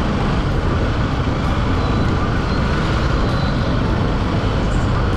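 Motorcycle running at a steady speed on the road: a low engine hum under a constant rush of wind and road noise.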